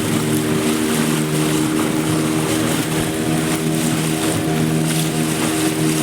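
Motorboat engine running steadily at a constant pitch, with a steady rush of wind and water hiss over it.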